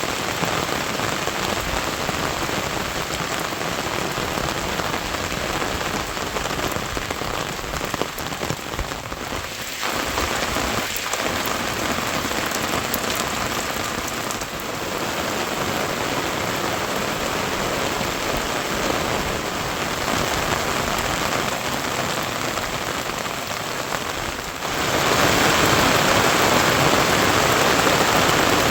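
Steady rain falling on surfaces, a dense even hiss that gets louder near the end.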